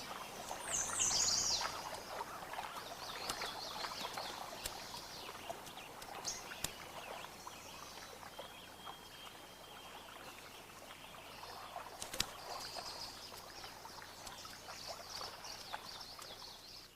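Small birds chirping with quick high trills, loudest in the first couple of seconds, over faint outdoor ambience. A single sharp click about twelve seconds in.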